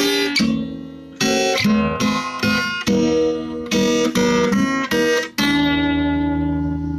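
Guitar playing a series of chords. A last chord about five and a half seconds in is left to ring out and fade.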